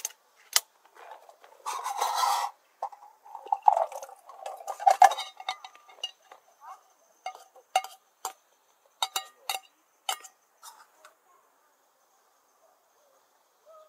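Camp cookware and utensils clinking and knocking as they are handled, with a short rushing noise about two seconds in; the clinks thin out over the last few seconds.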